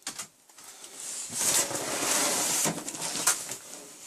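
Cardboard packing being handled and slid out of a box: a rustling, scraping noise, loudest from about one to three seconds in.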